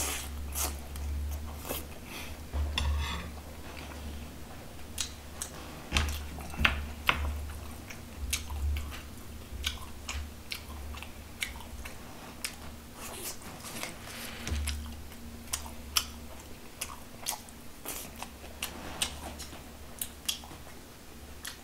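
A man chewing mouthfuls of grilled bulgogi and stone-pot bibimbap close to the microphone, with many short, wet mouth smacks and clicks, and now and then a light clink of chopsticks or spoon on the dishes.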